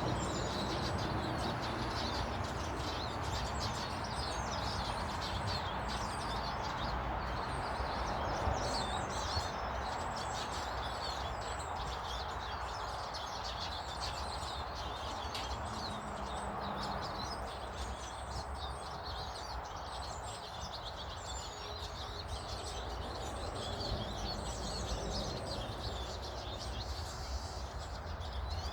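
Many small garden birds chirping and twittering throughout, short high calls overlapping one another, over a steady background hiss and low rumble.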